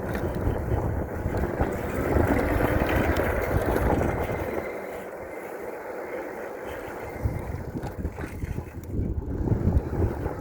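Wind buffeting the microphone of a moving electric bike, with road and tyre noise. The rumble eases off sharply about four or five seconds in as the bike slows, leaving quieter noise and a few light knocks.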